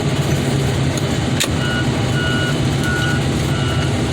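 Heavy machine's diesel engine running steadily. A single sharp knock about a second and a half in, then a reversing alarm starts beeping, about three beeps every two seconds.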